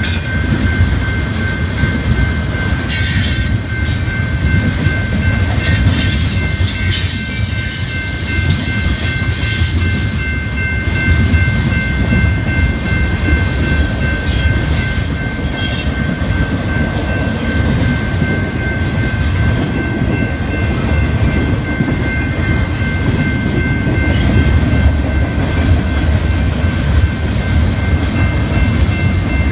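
Train rolling past at a railroad crossing: a loud, steady rumble of wheels on rails, with high-pitched screeching and clanking now and then and a thin steady high tone running underneath.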